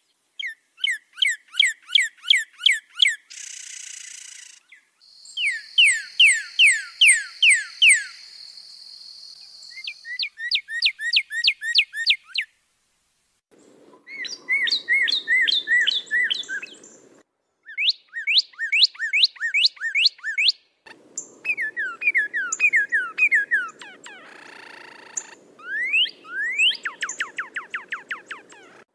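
Recorded songbird song spliced from several clips: phrases of rapidly repeated, sharply falling whistled notes, about five a second, broken by short gaps and abrupt cuts between recordings.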